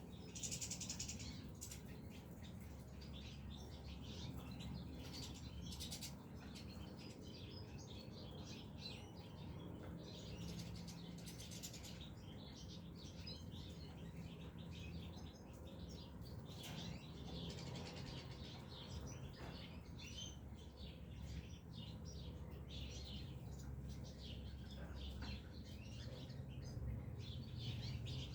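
Caged goldfinches and other finches chirping: many short high chirps and calls, overlapping and continuous.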